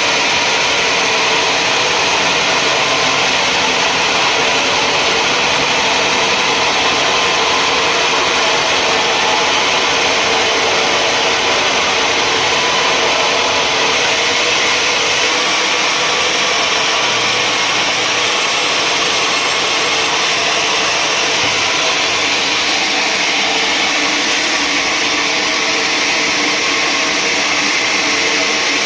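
Sawmill machinery running steadily: a loud, even mechanical noise with a constant hum and hiss that does not change.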